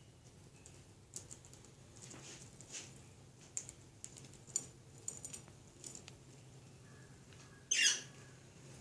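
Budgies giving scattered short, high chirps and soft clicks, with one louder call near the end.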